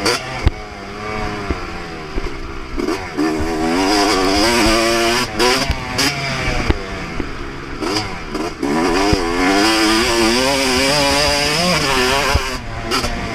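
2024 Yamaha YZ250 two-stroke single-cylinder motocross bike ridden flat out, its engine revving hard and dropping again through gear changes and corners, with repeated knocks and wind buffeting over the top.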